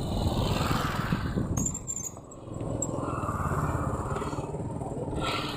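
Motorcycle running on the move, its engine noise mixed with wind rush; it drops briefly about two seconds in, then picks up again.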